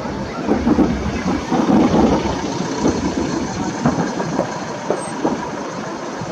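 Fireworks going off in rapid succession: a dense, continuous run of overlapping booms and crackles that thins slightly near the end.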